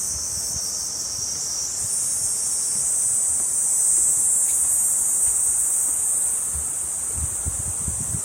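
Steady, high-pitched buzzing chorus of cicadas in summer woodland, rising slightly in pitch and growing louder about two seconds in. A few soft low thuds come near the end.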